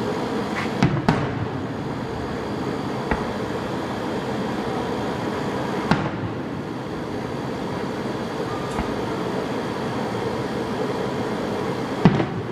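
Fireworks going off at intervals: five sharp bangs, the loudest about a second in and near the end, over a steady background rumble.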